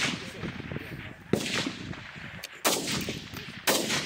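Four rifle shots on a firing line, about a second apart, each with a short echoing tail, over gusting wind buffeting the microphone.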